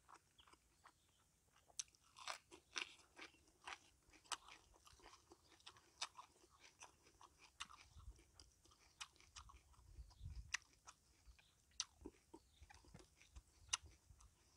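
Quiet, close-up eating sounds: irregular crisp crunches and wet chewing of lettuce and grilled fish, with a few sharper crackles.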